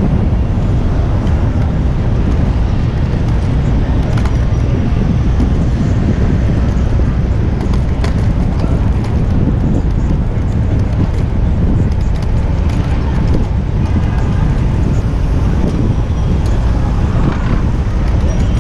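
Steady city traffic noise heard while riding a bicycle among cars, with a heavy low rumble of wind on a GoPro's microphone.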